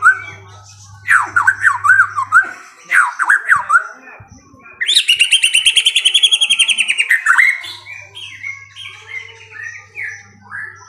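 A songbird singing: short bursts of quick, sweeping chirps, then a long, rapid, loud trill about five seconds in that lasts some two and a half seconds, followed by softer scattered chirps.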